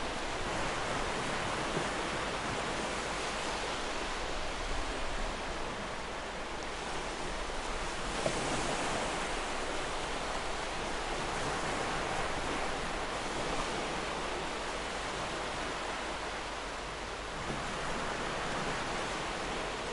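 Sea waves washing on the shore in a steady, continuous rush, swelling gently now and then.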